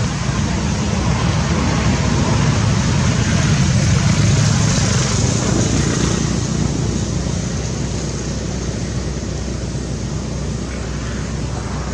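Road traffic noise: a motor vehicle passing, its rumble and tyre hiss swelling about four seconds in and then slowly fading.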